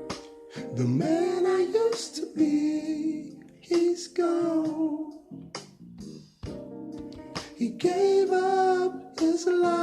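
A song: a solo voice singing held, slightly wavering notes in several phrases, over instrumental accompaniment.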